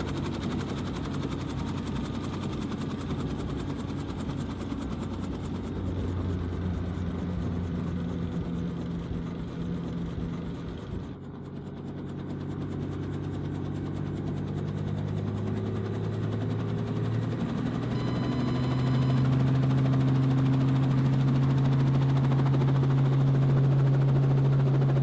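Agricultural spray helicopter's engine and rotor running steadily. The sound dips briefly about eleven seconds in, then its pitch rises and it settles into a louder, steady tone for the last several seconds.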